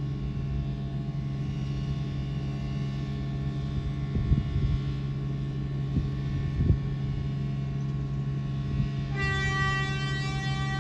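Steady low drone of a TEXRail diesel multiple-unit train, with a few short thumps in the middle. About nine seconds in, the train's horn starts sounding as one steady chord.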